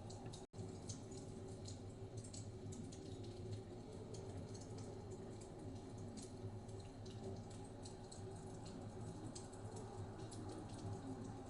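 Wood fire crackling in a fireplace, with many small irregular snaps and pops over a low steady rumble of blizzard wind. The sound drops out completely for an instant about half a second in.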